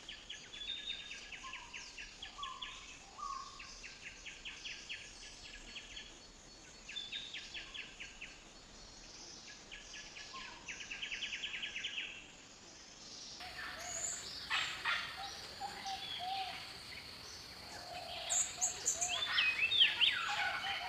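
Wild birds calling and singing: rapid trilled phrases repeat over the first half, with a few short lower notes. About thirteen seconds in the recording changes, and louder, varied calls follow, some of them sliding in pitch.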